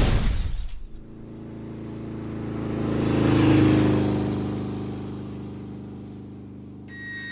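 A crash sound at the very start, then a motorcycle engine running steadily as it passes by, growing louder toward the middle and fading away.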